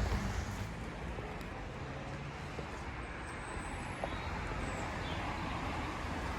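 Steady outdoor street ambience: an even wash of background noise with no distinct events.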